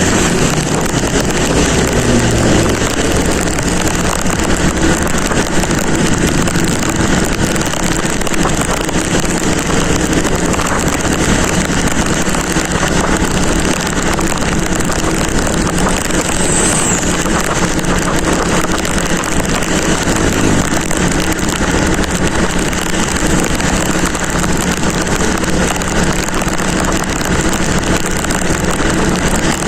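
Motorcycle riding along with its engine running steadily, under a dense rush of wind and road noise on the microphone.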